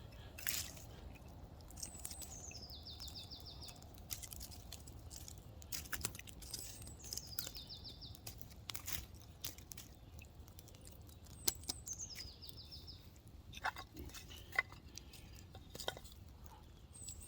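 A songbird singing the same short phrase four times, about every five seconds: a high note sliding down into a quick even trill. Scattered sharp clicks and crackles from the wood fire burning down to embers run underneath.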